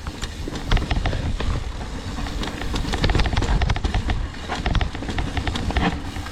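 Mountain bike riding down a rough downhill trail: a dense, continuous clatter of the bike rattling and its tyres knocking over the ground, over a heavy low rumble of wind on the microphone.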